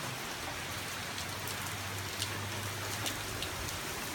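Steady rain of a hurricane squall: an even hiss with faint scattered drop ticks.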